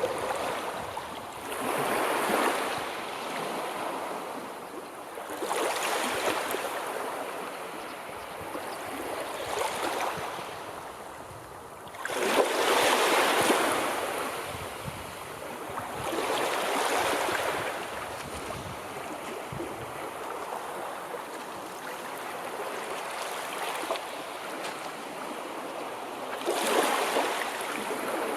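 Sea waves breaking and washing on a shore, swelling and falling away every few seconds, with the loudest surge about halfway through.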